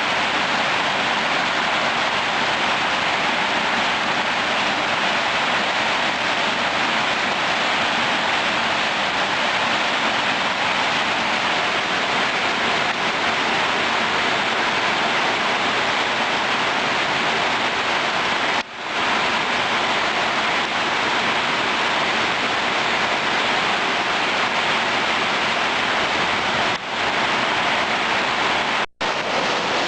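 Heavy rain pouring down in a steady, dense hiss. The sound cuts out for a moment a few times in the second half.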